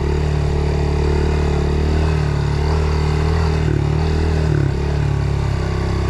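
Dirt bike's single-cylinder engine running at steady throttle, with a couple of brief dips in pitch around the middle as the throttle eases off.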